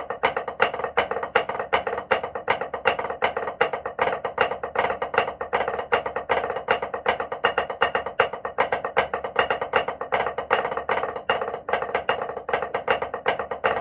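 Wooden drumsticks striking an Offworld Invader V3 urethane practice pad in a continuous run of fast, even strokes with accents, a dry, tapping sound with a pitched ring around the middle of the range.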